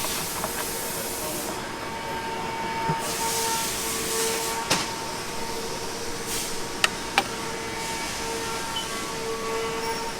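Steady workshop background hiss with a constant hum, broken by a few sharp clicks near the middle, the loudest a pair about a third of a second apart around seven seconds in.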